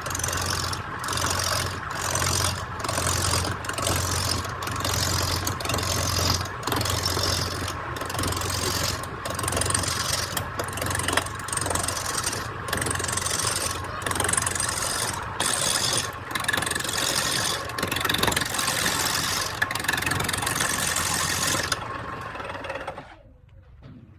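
Electric woodworking power tool running and cutting wood: a loud, steady cutting hiss over a low motor hum, broken by brief, regular dips about twice a second. It stops abruptly near the end.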